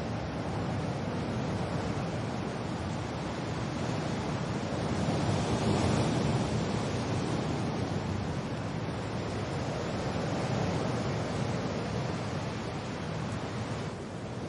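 Steady wind and rain, a continuous hiss that swells about six seconds in and eases slightly near the end.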